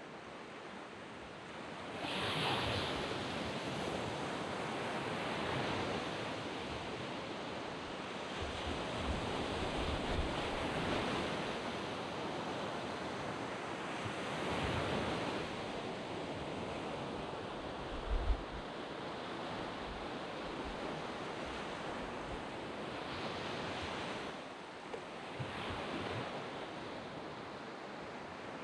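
Small waves breaking on a sand beach, the surf swelling and washing in every few seconds over a steady wash of water.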